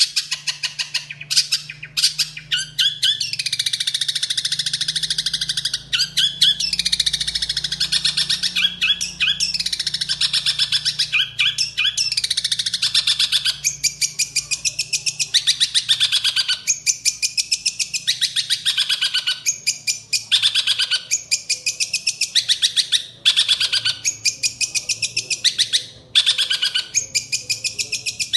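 Caged songbird singing a long, rapid, chattering song of fast trills and sweeping high phrases, broken by short pauses, over a faint steady low hum.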